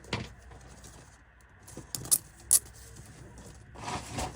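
Plastic cable ties (Panduit zip ties) being handled, joined and pulled tight: a few sharp clicks, the loudest two about two and two and a half seconds in, and a longer rattling rustle near the end.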